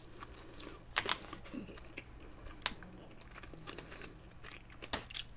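A person chewing a mouthful of cheeseburger close to the microphone, with scattered soft mouth clicks, the sharpest about a second in and near the end.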